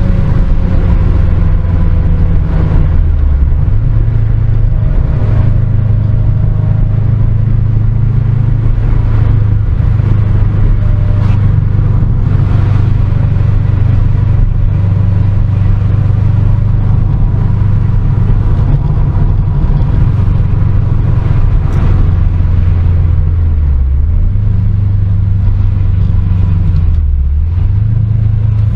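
Sports car being driven, its engine running loud and steady with a low rumble. The engine note dips briefly and recovers three times, about 3, 23 and 27 seconds in.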